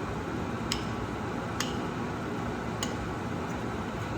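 Utensil clicking against a small bowl while stirring a cornstarch-and-water slurry to work out the lumps: three light clicks about a second apart, over a steady background hum.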